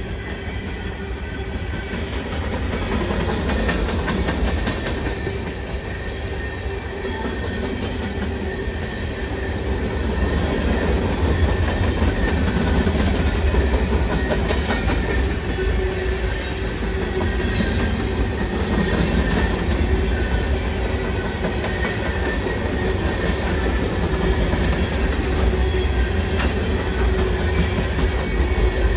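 A freight train of empty open-top gondola cars rolling past at close range: steel wheels on the rails in a steady low rumble, with faint steady high tones over it. It grows a little louder about ten seconds in.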